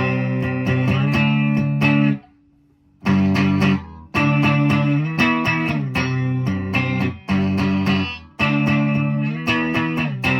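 Electric guitar played through an amp, with strummed chords in a steady rhythm. The playing breaks off for about a second around two seconds in, then carries on in short phrases with brief gaps between them.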